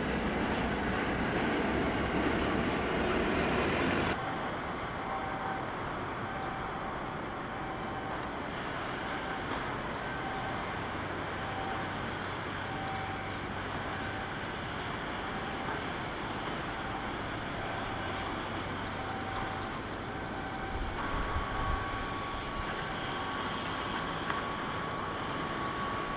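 Loud rushing noise that cuts off suddenly about four seconds in, giving way to quieter outdoor machinery noise with a short beep repeating about once a second; a steady tone joins near the end.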